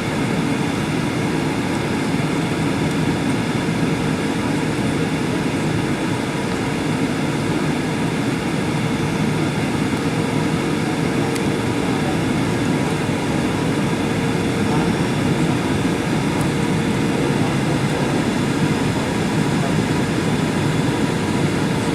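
Steady in-flight noise of a Boeing 737-800: engine and airflow noise with a faint steady hum, unchanging throughout.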